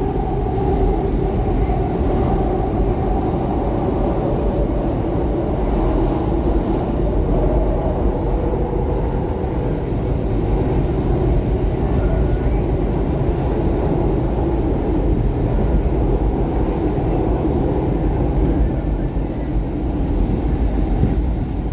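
Steady running noise heard from inside a SEPTA Market-Frankford Line train car between stations: a continuous low rumble of wheels on rail and motors, with no clear breaks.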